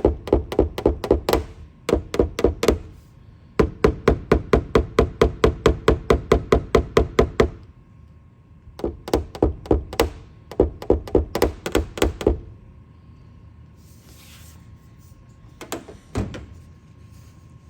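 Rapid light taps on a car's sheet-metal roof panel, in runs of a few seconds at about five taps a second, typical of paintless dent repair tap-down work on the area around a glue-pulled hail dent. The runs stop about two-thirds of the way through, and two single knocks follow near the end.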